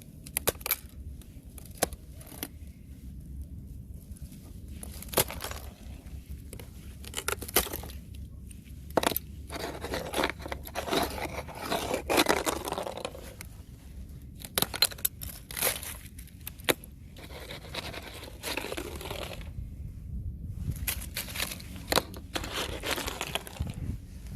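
Thin fresh ice being scraped and cracked: scattered sharp cracks and crackles, with a longer scraping stretch about ten to thirteen seconds in and shorter ones near the end.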